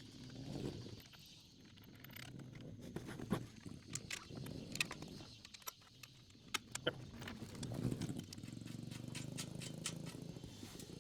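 Small metal parts being handled while the carburetor goes back onto a Honda GX200 engine: a scatter of sharp clicks and taps that come closer together in the last few seconds, over a low rumble.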